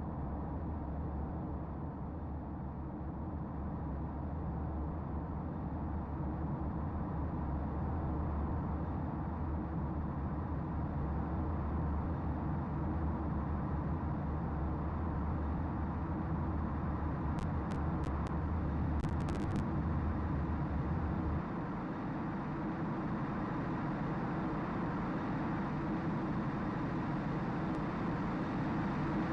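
Steady engine noise, slowly building, with a deep low hum in it that stops abruptly about two-thirds of the way through.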